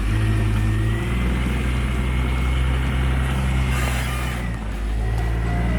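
Jeep Wrangler YJ's engine running steadily as it drives off-road, with a brief drop in revs about four and a half seconds in.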